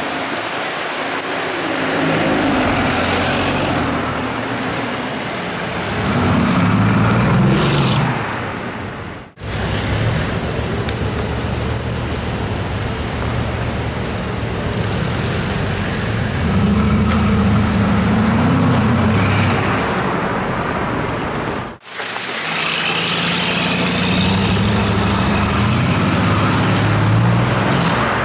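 Bugatti Veyron's quad-turbo W16 engine with an upgraded sports exhaust, accelerating hard with a deep note that rises and swells, in several separate pulls over street traffic noise.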